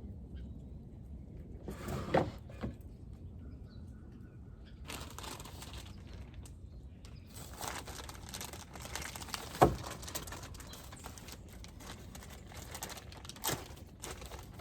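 Bird seed being handled and poured into a bird feeder: a crinkling bag and a hissing rustle of pouring seed, with a few sharp knocks, the loudest about two thirds of the way through.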